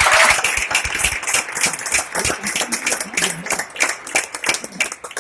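Audience applauding, many hands clapping together, the claps thinning out and fading near the end.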